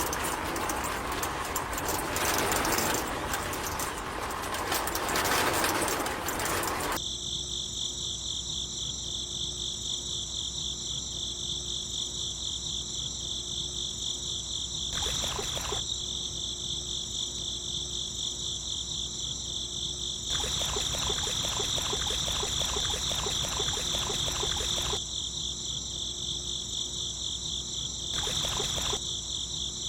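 Crickets chirping in a steady, fast-pulsing chorus, after a rushing noise that stops about seven seconds in. Shorter stretches of that broader noise come back now and then under the chirping.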